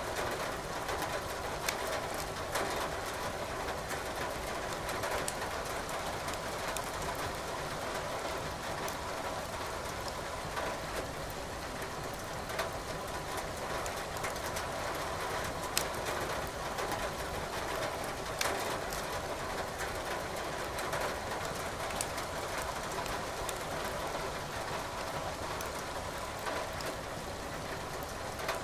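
Wood fire crackling in a fireplace, with an occasional sharp pop of burning logs, over a steady hiss of rain.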